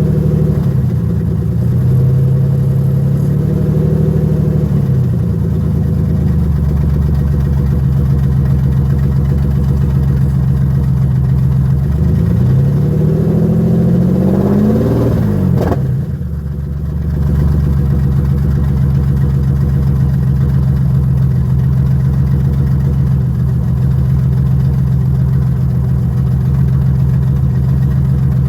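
Turbocharged Nissan G35's 3.5-litre V6 idling steadily, rising in revs once about halfway through and dropping back abruptly, the idle sagging briefly before it settles again.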